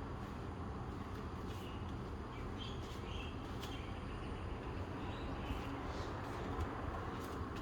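Outdoor morning ambience: a steady low rumble with a few faint, short bird chirps, mostly in the first half.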